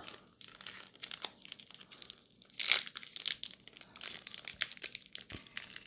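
Trading cards being handled by hand: an irregular crinkling rustle with sharp flicks and snaps as cards are slid through the stack, the loudest about two and a half seconds in.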